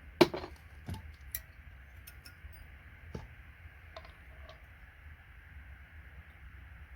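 Plastic connector housing coming off its gold-plated pins: one sharp click about a quarter second in, then a few lighter clicks and ticks as the parts are handled.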